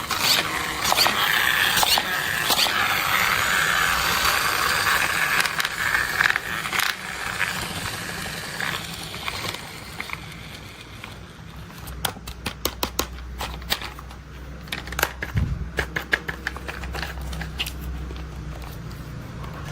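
Toy construction vehicles and their packaging being handled: crinkling and scraping for the first several seconds, then a run of quick, sharp clicks and taps.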